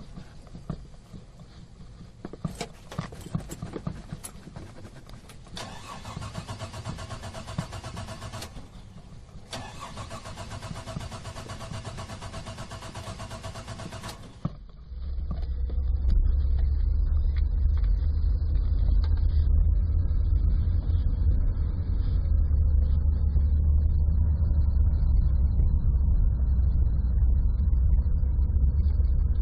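Car engine being cranked by its starter in long attempts, with brief pauses between them, while the accelerator pedal is pumped. About halfway through, the sound switches abruptly to a louder, deep and steady engine rumble of the engine running.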